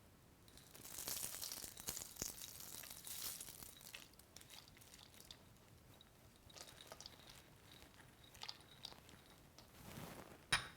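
Dry crackling and rustling as birdseed, nuts and raisins are added to a bowl of suet mixture, loudest for the first few seconds, then scattered light clicks.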